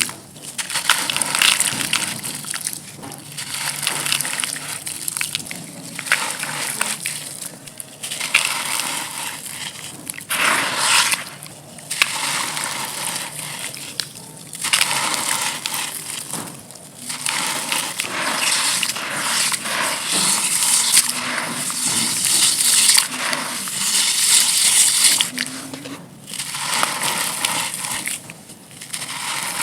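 Dry chunks of red clay dirt being crushed and crumbled, a gritty crunching that comes in repeated bursts of a second or two with short pauses between.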